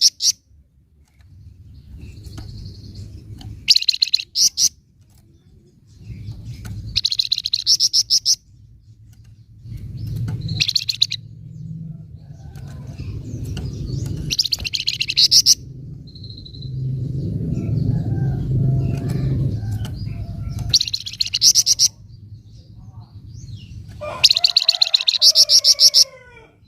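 Flamboyan (Javan fulvetta) giving its 'nyecret' call: bursts of rapid, fast-repeated chattering about a second long, about six times, over a low background rumble.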